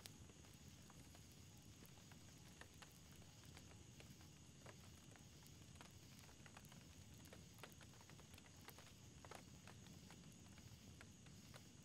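Faint crackling of a small wood campfire: irregular short pops and snaps over a low, steady background.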